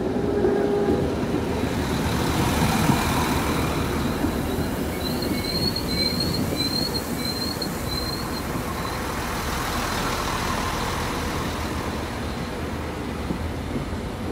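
Alstom Coradia LINT 41 diesel railcar passing close by at low speed, its engine and wheels running over the rails. A high wheel squeal comes and goes for a few seconds in the middle, and the sound fades slightly near the end as the railcar moves away.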